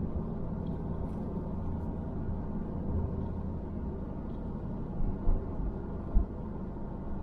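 Steady low rumble of a car's engine and tyres heard inside the cabin while driving slowly, with a couple of brief low thumps from bumps in the road about five and six seconds in.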